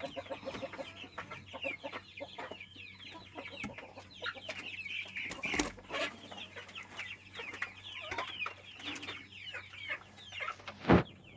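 A flock of domestic chickens clucking, with many short, overlapping falling calls. A sharp knock sounds about halfway through and another near the end.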